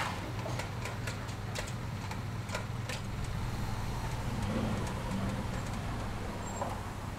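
SUV engine running at low speed as the car rolls in, a steady low hum, with a scatter of light, sharp ticks over the first three seconds.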